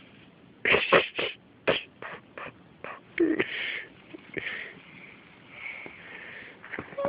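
A child moving through deep snow: a run of irregular crunching thumps, most of them in the first three seconds, with breathy puffs of sound between them.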